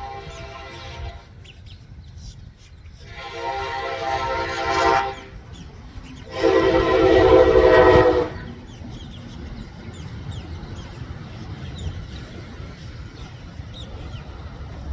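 Train horn sounding in long held blasts: one ending about a second in, then two more of about two seconds each, the last the loudest, over a low rumble.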